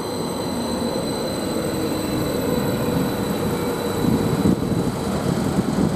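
Greater Anglia Class 755 bi-mode train running on electric power with its pantograph still raised: a steady rumble with a faint whine that slowly fades.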